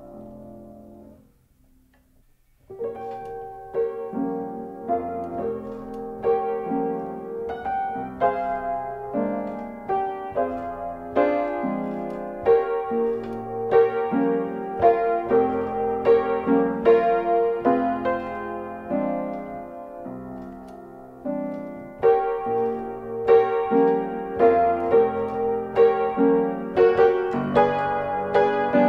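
Piano music. A previous sound fades out in the first second or so; after a short pause the piano starts, playing a steady flow of repeated notes and chords, dipping briefly about two-thirds of the way through before carrying on.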